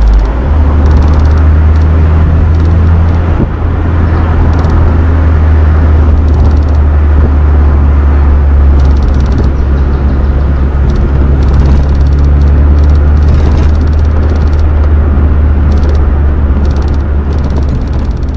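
Mazda MX-5 NB's 1.8-litre four-cylinder through an M2 Motorsport aftermarket exhaust, running at a steady engine speed with a loud, low exhaust drone that eases off slightly near the end.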